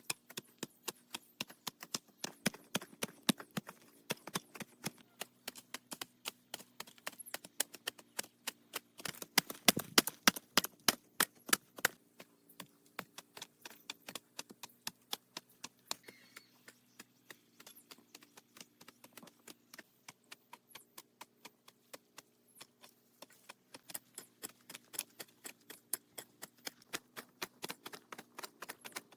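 A rapid, steady run of sharp taps or knocks, several a second, loudest about ten seconds in.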